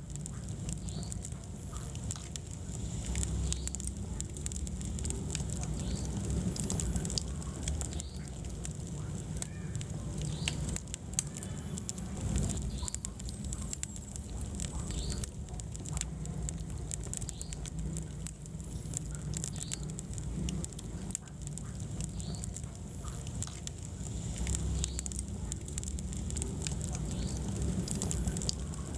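Wood fire burning in a fireplace, crackling steadily with many small irregular pops over a low rumble of the flames.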